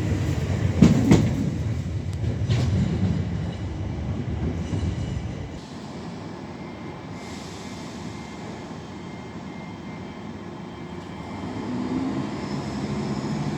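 Southern electric multiple-unit train moving along a platform road, wheels clicking over rail joints under a rumble that fades about five seconds in. A low hum builds again near the end.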